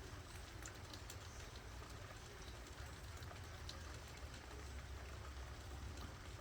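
Quiet outdoor ambience: a low steady rumble with a faint hiss and scattered faint ticks.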